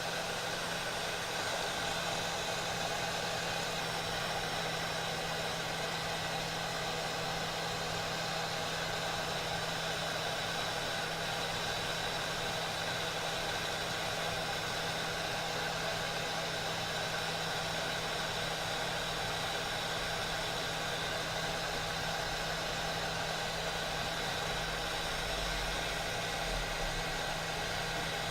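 Steady machine hum, running evenly without change.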